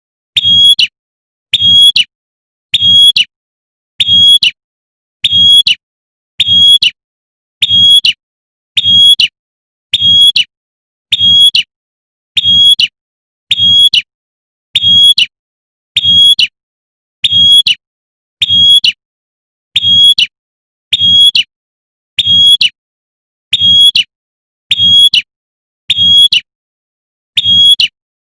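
Female prinia (prenjak) giving its sharp 'tembakan' call, a short high note repeated at a steady rate of a little under one a second, each with a low thud under it; the evenly spaced run is a looped lure call used to draw in males.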